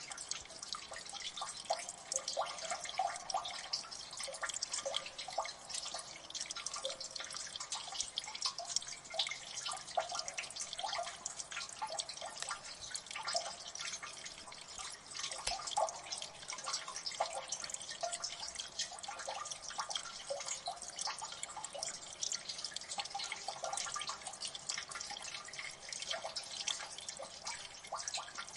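Water dripping in a gully: many drops falling at once in a dense, irregular patter of small plinks and splashes, steady throughout.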